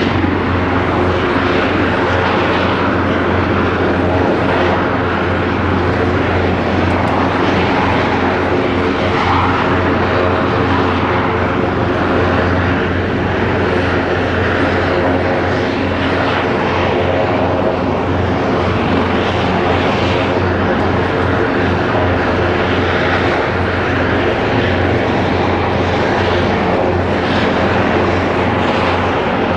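Airbus EC225LP Super Puma helicopter running steadily, its twin turbine engines and rotors making a loud, even low hum with many steady tones above it.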